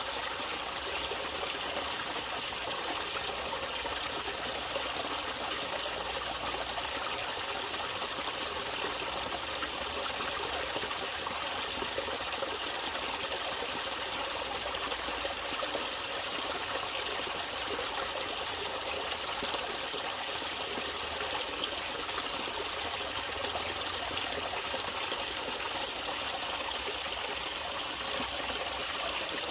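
Natural running water, a small stream trickling and splashing steadily.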